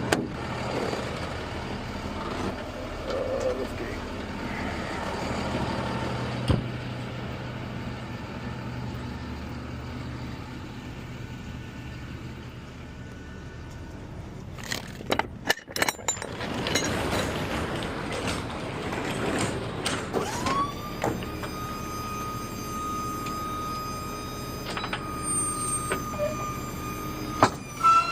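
Box truck engine idling, with a burst of metal clanks about halfway through. Then the lift gate's electric hydraulic pump spins up into a steady high whine, runs for about seven seconds and cuts off.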